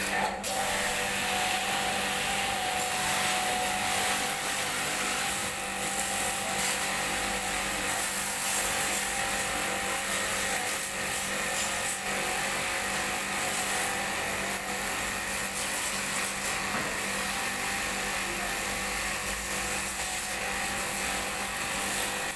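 Air-conditioning unit running: a steady whirring fan noise with a constant low hum.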